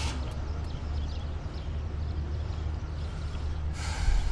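Car engine idling with a steady low hum. Near the end a car door shuts with a thump.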